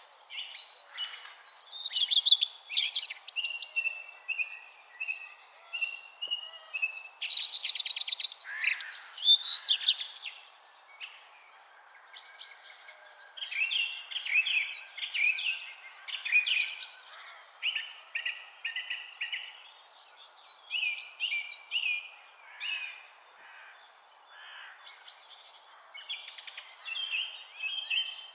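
Songbirds singing in overlapping chirps and trills, with the loudest phrases about two seconds in and again around seven to nine seconds, over a steady background hiss.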